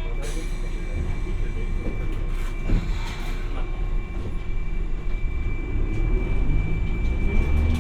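Hiroden 700 series tram no. 701 running, heard from inside the car: a steady low rumble of wheels on rail, with the motor's pitch rising from about six seconds in as the tram accelerates.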